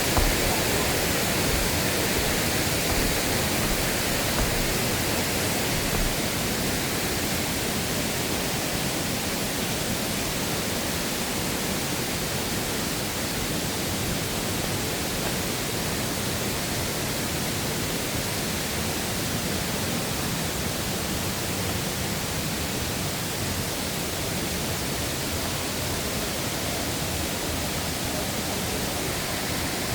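Steady rush of water in a mountain stream, an even hiss with no breaks, a little louder in the first few seconds.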